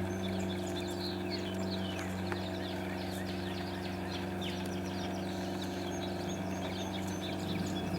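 Many small birds chirping at once, a rapid stream of short, falling chirps, over a steady low hum.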